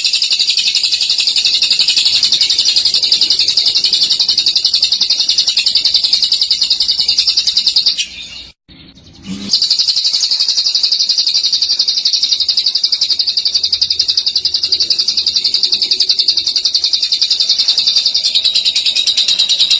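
Lovebird in a long 'ngekek': a fast, unbroken rattling chatter of high chirps with a rolling sound. It breaks off for about a second and a half midway, then runs on.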